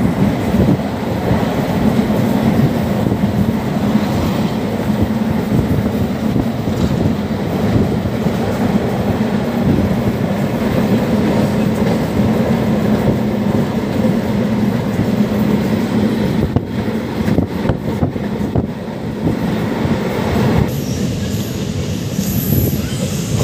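Passenger train running along the track: a steady, loud rumble of wheels on rail. A high-pitched squeal joins near the end.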